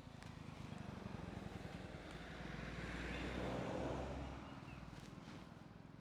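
Honda CB350 motorcycle engine and exhaust running, growing louder to a peak about three to four seconds in, then easing off.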